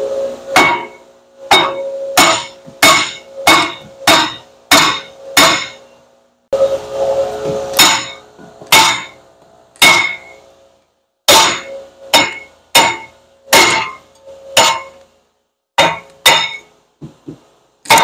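A hammer repeatedly striking the steel brake rotor and hub of a car's front wheel, about twenty sharp blows roughly one to one and a half a second apart with a short pause midway. Each blow leaves a brief metallic ring.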